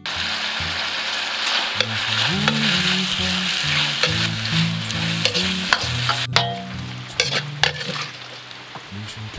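Food sizzling loudly in a hot wok as it is stir-fried, with sharp clicks and scrapes of the spatula on the pan. The sizzle starts suddenly and fades somewhat after about six seconds. Background music plays underneath.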